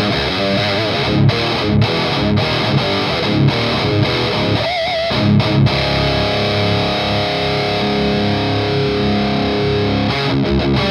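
Heavily distorted electric guitar played through a Noise Pollution Pedals Psycho Metal Death Machine (PMDM) high-gain pedal. A chugging riff with sharp stops gives way to a note with vibrato about five seconds in, then a held chord rings for several seconds before the riff picks up again near the end.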